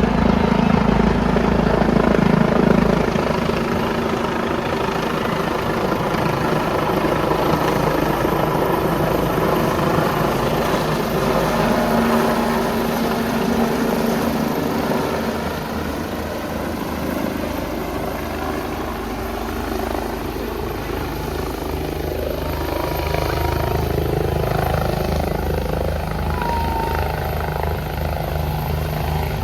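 Police helicopter running, a steady rotor and turbine noise that eases a little about halfway through.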